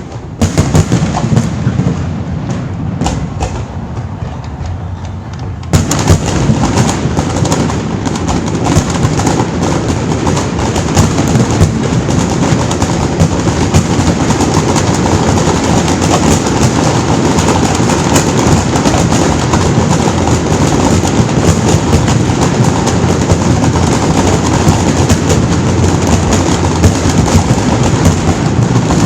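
Fireworks finale: a few separate bangs at first, then, about six seconds in, a sudden dense barrage of bursts and crackling that keeps going without a break.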